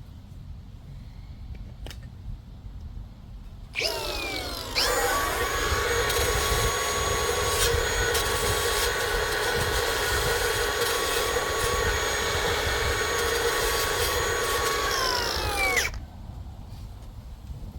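Electric power tool spinning up about four seconds in, running steadily for about eleven seconds, then winding down.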